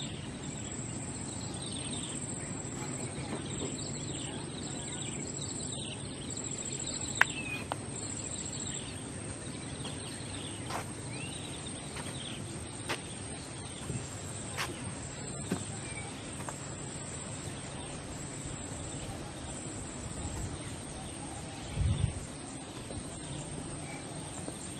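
Outdoor background noise with small birds chirping, repeated short falling calls that thin out after the first half. A few sharp clicks stand out, and there is a low thump near the end.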